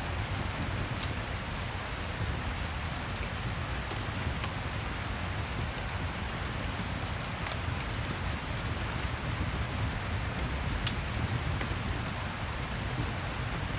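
Steady rain with a low rumble underneath, and scattered sharp crackles of a wood fire every second or two.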